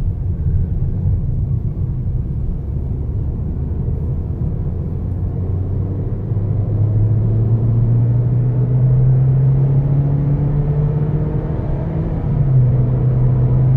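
2013 Ford Fiesta's four-cylinder engine heard from inside the cabin, pulling away and accelerating with road noise underneath. The engine note climbs steadily in pitch, then steps a little more than a second before the end.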